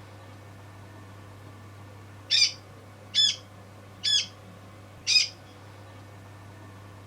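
A bird gives four short squawks, about a second apart, over a steady low hum.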